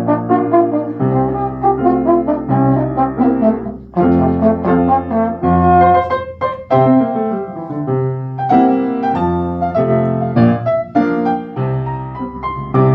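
Live instrumental music: brass playing a melody over piano accompaniment, with sustained low notes and changing chords throughout.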